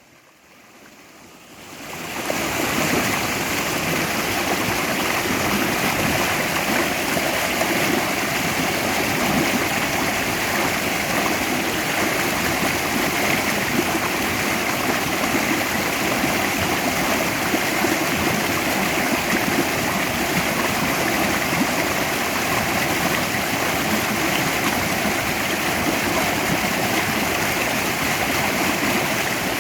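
Mountain valley stream rushing, a steady even wash of running water that fades in over the first couple of seconds.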